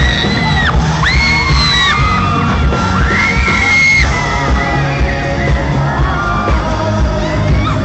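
Live pop music over a concert PA with a steady beat, and the crowd screaming: several long, high-pitched screams that swoop up, hold and drop, the loudest near the start, about a second in and about three seconds in.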